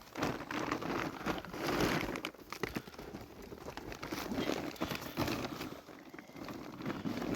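Irregular crinkling and crunching, like something being handled, crumpled or broken up.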